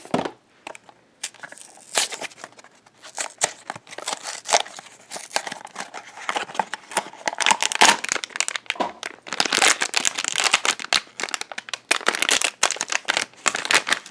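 Blind-box packaging crinkling and tearing as it is opened by hand: a dense, rapid crackle that keeps going, after a short quiet spell near the start.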